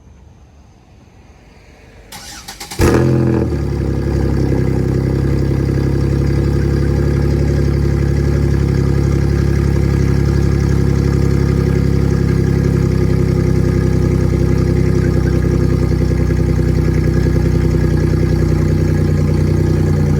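Chevrolet Monte Carlo SS with a swapped 6.0-litre LS V8 cranking for under a second about two seconds in, catching with a sharp jump in loudness, then idling loud and steady.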